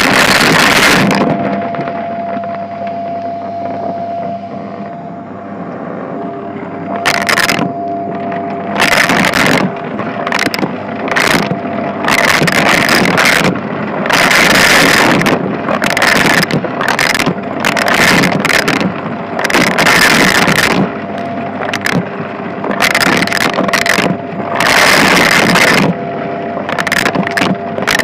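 Shark vacuum cleaner running with a steady motor whine. From about a quarter of the way in, loud rushing surges come and go every second or two as it is worked back and forth over a shag rug.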